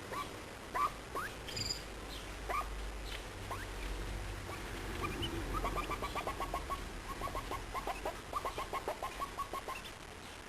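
Birds calling: scattered short rising chirps, then about five seconds in a fast run of short repeated notes, roughly five a second, lasting about four seconds.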